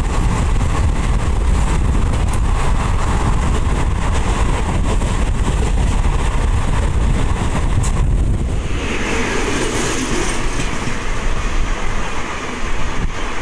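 Train running at speed, heard from the doorway of an ICF passenger coach: a steady heavy rumble of wheels on rail with clicks over the rail joints as it runs alongside another train. About eight seconds in, the sound shifts to a brighter rushing hiss.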